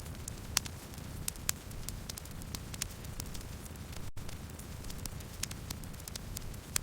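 Wood fire burning: a steady low rumble of flames with frequent sharp crackles and pops from the burning wood. There is a momentary drop-out about four seconds in.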